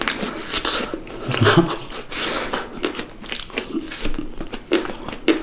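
Chewing and crunching food close to the microphone, a rapid irregular run of crackling bites and mouth noises, with a brief low hum about a second and a half in.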